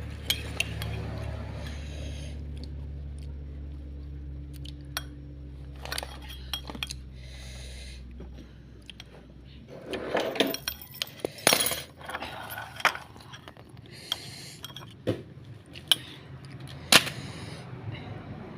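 Clinks and knocks of kitchen utensils and dishes being handled, as scattered sharp taps that come more often in the second half. A low steady hum runs underneath and stops about halfway through.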